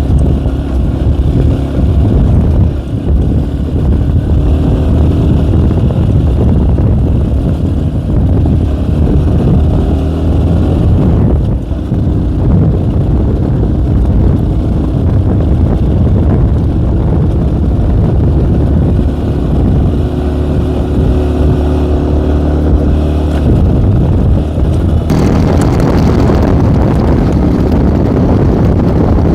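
Small K Moto ATX enduro motorcycle engine running steadily under load on a hill climb. About 25 seconds in, the engine note turns harsher.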